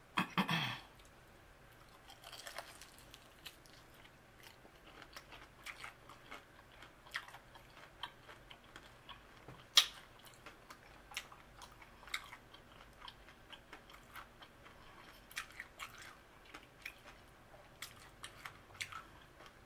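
A person chewing a battered fried chicken wing coated in barbecue sauce: scattered crunchy and wet mouth clicks, with one sharper click about halfway through.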